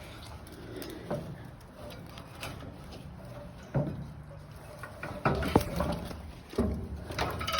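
Scattered scuffs, knocks and shuffling of people climbing and moving about, with a few sharper knocks about four, five and a half and six and a half seconds in.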